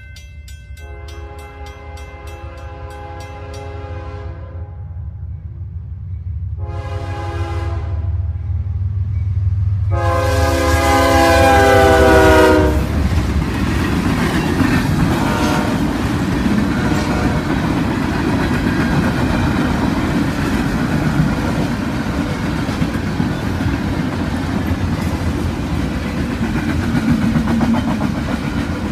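Grade-crossing bell ringing while a CSX diesel freight locomotive approaches with a rising rumble and sounds its air horn in three blasts: long, short, then long. The locomotive then passes close by and double-stack container cars roll through with a steady clatter of wheels on rail.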